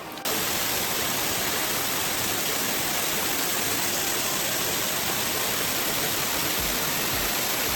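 Steady, dense rush of a waterfall's falling water, cutting in sharply just after the start and holding even.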